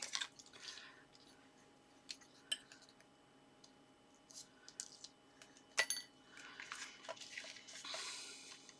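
Faint handling of card pieces: a few small clicks and taps, one sharper click with a brief metallic ring about six seconds in, then a soft rustle of card that swells near the end.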